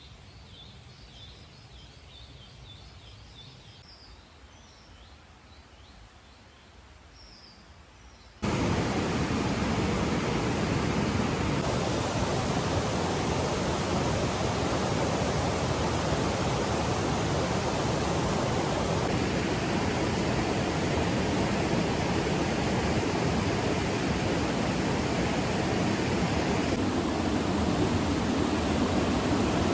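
Faint birds chirping, then, about eight seconds in, a sudden cut to a loud, steady rush of water that runs on with small changes at each edit.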